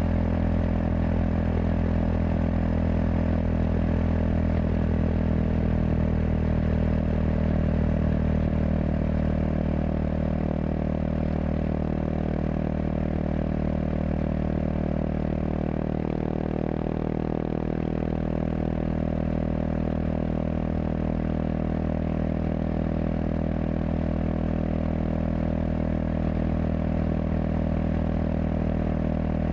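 Kawasaki KLX230SM's single-cylinder engine running at a steady engine speed through a K-Factory FRC slip-on silencer, a constant exhaust note that shifts slightly about halfway through.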